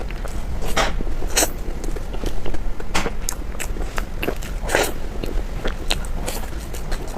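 Close-miked eating sounds: soft chewing, wet mouth clicks and smacks at an irregular pace, from someone eating a matcha-flavoured cilantro cake. A steady low hum runs underneath.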